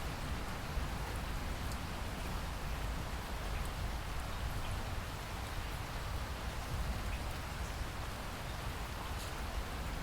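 Steady rain falling, with scattered single drops ticking sharply here and there.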